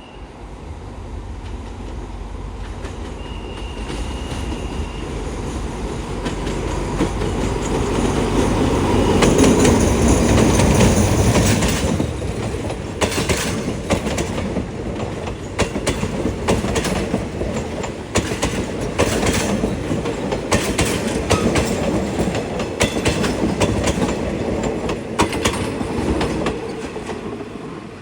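A train passing close by. A heavy low rumble builds to a peak about ten seconds in. Then the wheels clatter over rail joints in a rapid run of clicks as the cars roll past.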